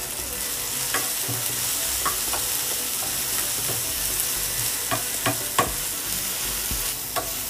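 Onion-tomato masala sizzling in oil in a nonstick frying pan while a steel spoon stirs it, with the spice powders just added. A few short clicks and scrapes of the spoon against the pan come through the steady sizzle.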